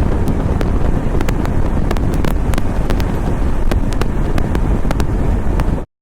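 Wind buffeting the microphone of a motorcycle at riding speed, a heavy low rush with frequent sharp crackles over the bike's road noise. It cuts off suddenly near the end.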